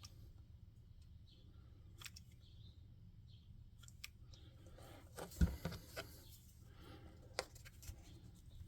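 Scattered small clicks and knocks of crafting tools and small objects being handled on a hobby table, with one sharper knock about five and a half seconds in, over a low steady room hum.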